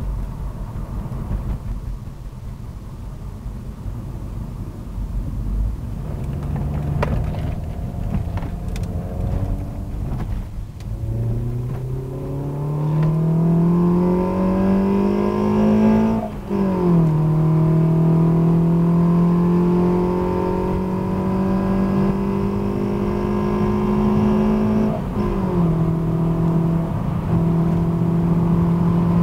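Ford Escort Mk6's 2.0 Zetec four-cylinder on 45 mm individual throttle bodies, heard from inside the cabin: quiet at first, then pulling hard with a rising engine note. It upshifts with a sudden drop in pitch a little past halfway, pulls again, and upshifts a second time near the end before holding a steady note.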